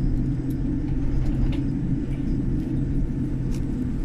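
Steady low rumble and hum inside an airliner cabin on the ground before takeoff.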